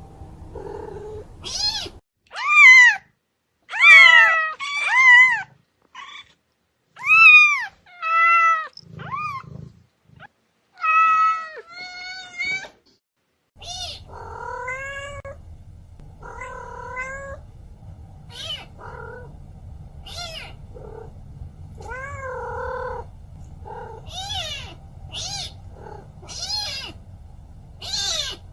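Kittens meowing: a long run of high-pitched meows, each rising and falling in pitch, the loudest in the first few seconds and quicker, softer mews later. A low steady hum sits under the calls in the second half.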